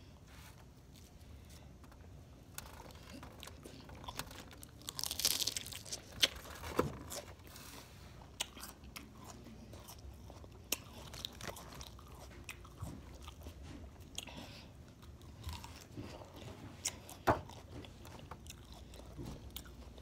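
Crisp lettuce salad being chewed and crunched close to the microphone, with scattered sharp clicks and a louder rustle about five seconds in.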